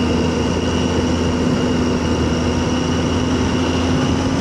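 Triumph Tiger 800's three-cylinder engine running at a steady cruise while riding, its even drone holding one pitch throughout, over rushing wind and road noise.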